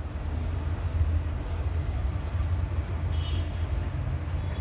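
Steady low rumble, with a short high chirp about three seconds in.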